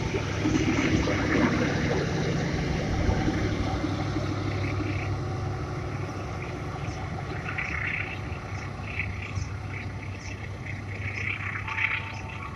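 Passenger train coaches running past on the rails, a steady rumble that slowly fades as the train draws away. Short high chirps repeat through the second half.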